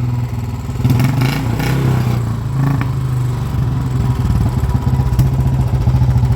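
Royal Enfield Bullet 350 single-cylinder engine running through a loud exhaust, with a quick rise in revs about a second in before it settles back to a steady, thumping idle.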